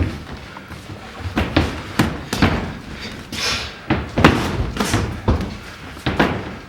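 Boxing gloves landing in an exchange of punches: a rapid, irregular series of dull thuds and slaps, about a dozen blows, some in quick bunches of two or three.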